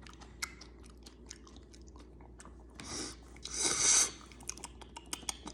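Close-up chewing of crunchy Cheetos Mexican street corn snacks: a run of small crackles and crunches, with two louder noisy crunches about three and four seconds in.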